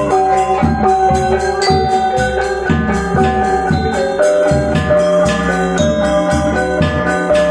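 Balinese gamelan gong ensemble playing: bronze metallophones struck in a steady, quick pulse, their ringing tones overlapping, over deeper gong strokes.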